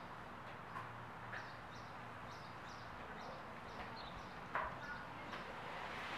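A bird chirping faintly, one short high call about twice a second that stops about four seconds in, over a steady low hiss. A soft tap sounds about four and a half seconds in.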